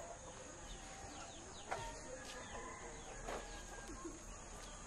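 Birds calling: many short chirps and sweeping calls, two of them louder, one near two seconds in and one near three and a half seconds in, over a steady high-pitched buzz.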